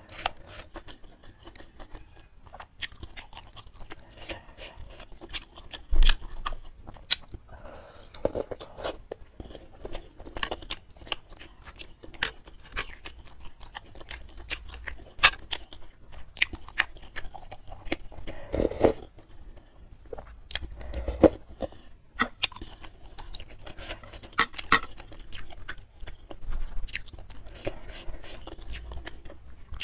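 Close-miked eating sounds: chewing and biting through meatballs, chicken feet and noodles, full of short sharp wet clicks, with a few louder knocks.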